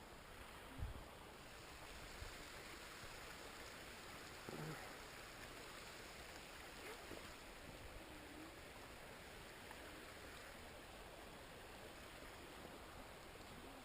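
Faint, steady rush of a small waterfall. Two soft knocks come about a second in and again about halfway through.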